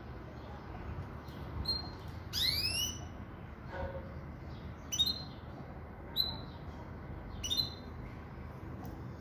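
Caged pintagol, a siskin × canary hybrid, giving a few short chirps and one louder rising call about two and a half seconds in.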